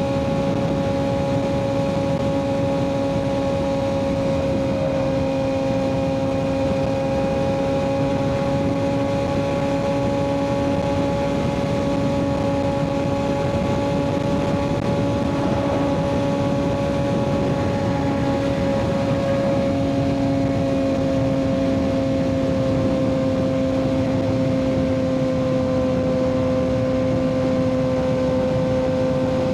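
Kawasaki ZX-6R 636 inline-four engine through an M4 aftermarket exhaust, running at a steady engine speed during the ride. Its hum holds nearly level the whole time, with wind and road noise underneath.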